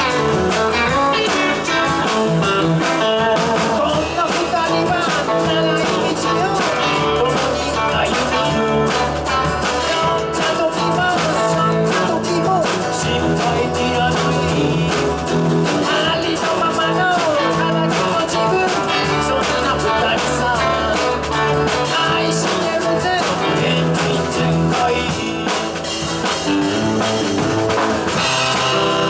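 Rock band playing a blues-flavoured rock-and-roll song, electric guitar to the fore over bass and a steady drum beat.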